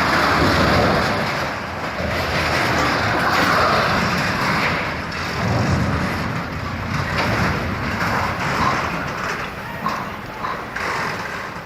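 Steady, loud vehicle running noise, a rumbling rush of engine and road sound with no distinct impacts.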